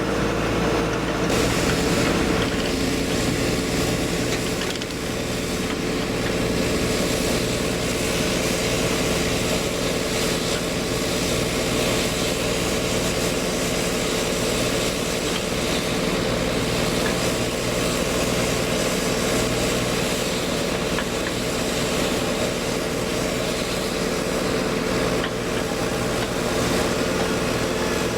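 Hyundai 140LC-7A excavator's diesel engine running steadily while the machine works, with a hiss that rises about a second in.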